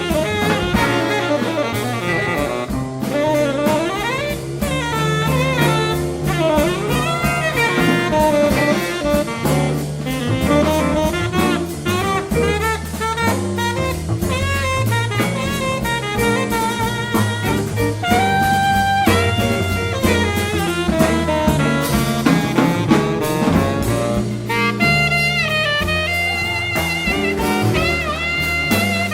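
A small jazz group playing a blues: a saxophone plays a melodic line with wavering held notes over a bass stepping from note to note, guitar, and drums keeping time on the cymbals.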